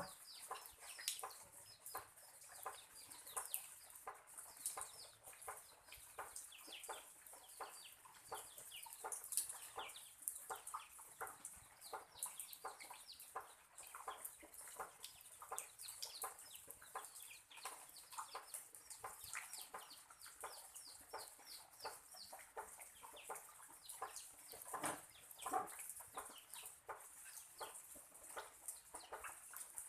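Faint chickens clucking, many short calls in quick succession, over a steady hiss of rain.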